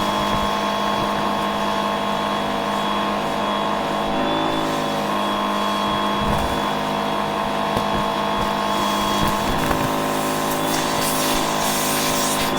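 Vacuum cleaner motor running steadily: a constant hum with a thin high whine, and a short hiss of extra suction noise near the end.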